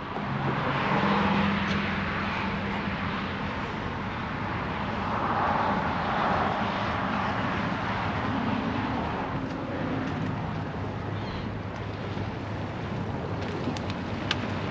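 Outdoor ambience of road traffic passing at a distance, swelling about a second in and again around five to seven seconds in.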